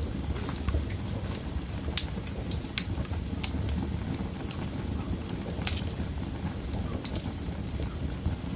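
Wood fire burning in a fireplace: a steady low rumble of flames with irregular sharp crackles and pops from the burning wood, a few louder snaps about two, three and a half and nearly six seconds in.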